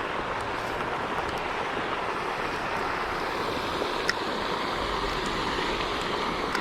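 Steady splashing rush of a pond's water fountain, with a light click about four seconds in.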